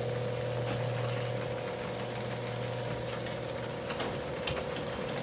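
Old garage door opener's motor running steadily, driving the door along its rail, with a few light clicks near the end. It is working normally again now that its limit-switch contacts have been sanded clean.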